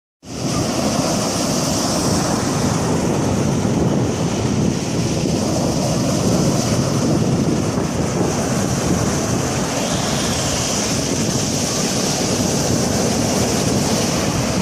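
Stormy sea: steady noise of surf and waves mixed with strong wind blowing over the microphone, with a high whistling hiss of the wind over a deep rumble of the water.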